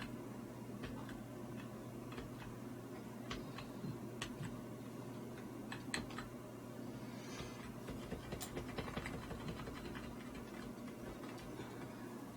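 Scattered, irregular light clicks of computer keys being pressed, over a steady low hum.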